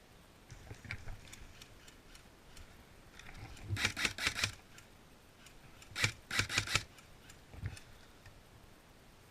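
Airsoft rifle firing two quick strings of about five sharp shots each, a couple of seconds apart, then one more single shot.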